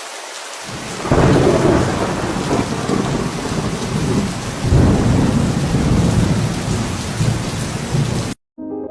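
Heavy rain falling steadily, with rolls of thunder rumbling up about a second in and again around the middle.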